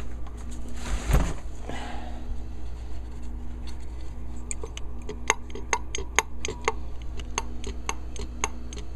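Worn turbocharger from a 1996 Ford F-250 Powerstroke diesel, its shaft rocked by hand and clicking sharply, about three clicks a second, from about halfway through. The clicks are the sign of excessive shaft play in a failed turbo.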